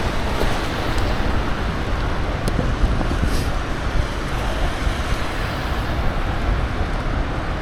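Wind buffeting the microphone of a camera on a moving bicycle: a steady, loud rush with a rumbling low end, mixed with road traffic noise.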